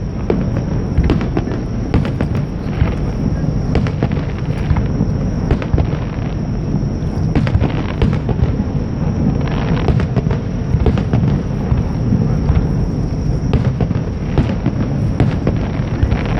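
Aerial fireworks going off one after another: repeated sharp bangs and crackles over a continuous deep rumble.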